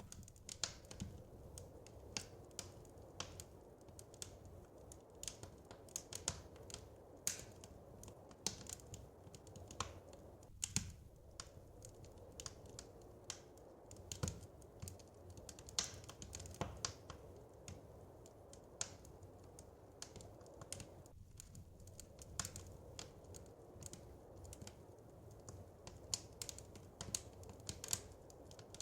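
Wood fire crackling: irregular snaps and pops, a few louder than the rest, over a low steady rumble.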